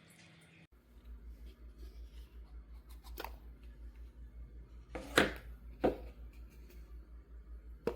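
Small object being handled: four sharp clicks or knocks, the loudest about five seconds in, over a low pulsing hum that starts under a second in.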